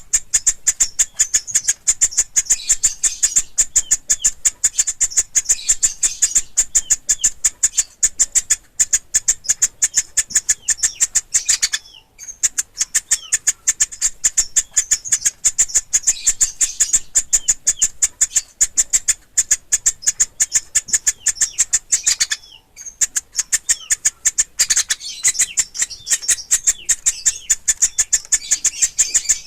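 Woodpecker nestlings calling nonstop: a rapid stream of short, high, thin notes, broken by two brief pauses about twelve and twenty-two seconds in.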